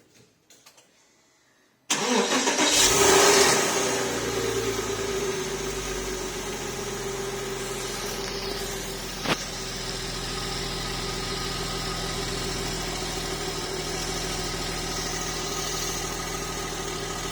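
Porsche 986 Boxster S flat-six cold start: after a few quiet clicks the engine cranks and catches about two seconds in, flares up loudly, then settles within a few seconds to a steady idle. A single sharp click about nine seconds in.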